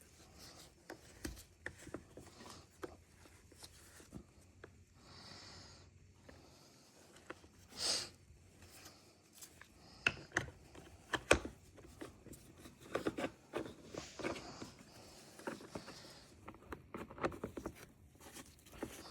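Scattered light clicks, taps and rattles of tools and small chainsaw parts being handled, with a short rushing noise about eight seconds in and a sharper knock about three seconds later.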